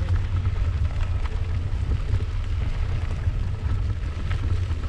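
Wind buffeting the microphone of a camera on a moving mountain bike, a steady low rumble, with faint tyre and gravel noise and a few small clicks.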